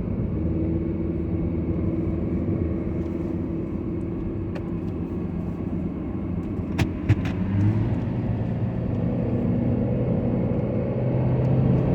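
Car engine and road noise heard from inside the cabin as the car drives off. The engine note climbs slowly in the last few seconds as it speeds up, with a couple of faint clicks in the middle.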